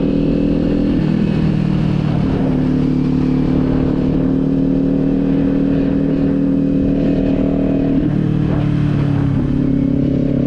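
Kawasaki Z400's 399 cc parallel-twin engine running steadily under way. The engine note shifts about a second in and again around eight seconds in.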